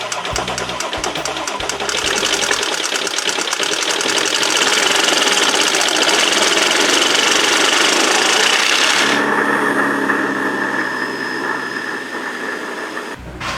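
A machine running loudly with a fast, even buzzing pulse. About nine seconds in it changes to a steadier sound with a held whine.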